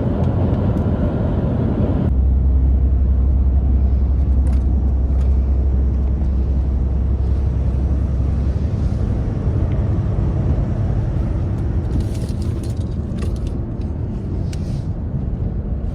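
Steady low rumble of a semi-truck's diesel engine and road noise while driving, heard from inside the cab. A deeper drone swells in about two seconds in and fades out about halfway through.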